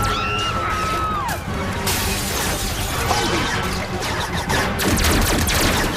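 Dramatic cartoon soundtrack music over glass shattering and crashing, with many sharp impacts.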